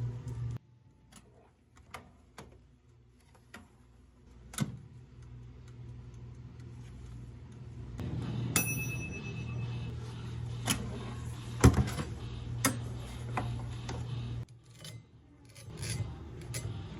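Clicks and knocks of cafe drink-making, with one short electronic beep about halfway through. A steady machine hum runs from the beep until shortly before the end.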